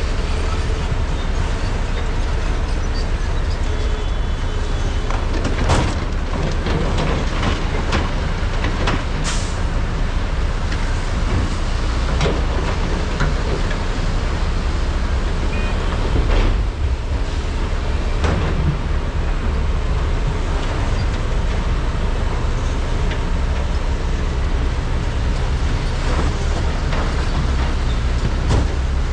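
Diesel engines of large hydraulic excavators (Komatsu PC395 and SANY SY485H) running under load while loading trucks: a steady heavy rumble, with a few sharp knocks and a short hiss about nine seconds in.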